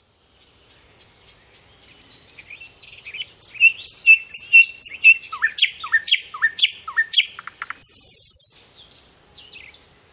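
Small birds chirping: a quick run of sharp high chirps and short falling whistles that starts a couple of seconds in, then a brief high buzzy note before the calls fade to a few faint chirps.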